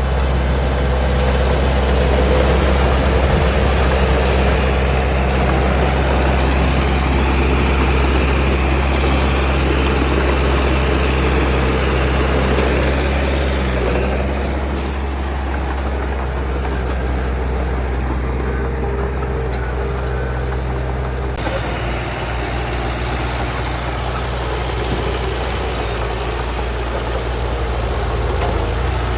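Heavy diesel engine of earthmoving machinery running steadily, a deep, even engine drone with mechanical clatter over it; its note shifts slightly about halfway through.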